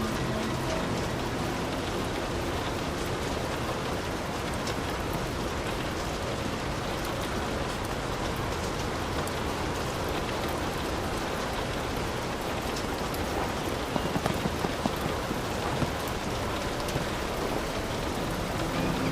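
Heavy rain falling steadily, a dense even hiss with single drops ticking on a surface. A few louder drop hits stand out near the end.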